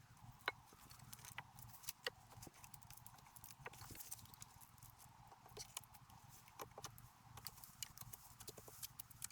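Irregular light knocks and clicks, a few a second, with a sharper knock about half a second in and another about two seconds in, over a faint low hum.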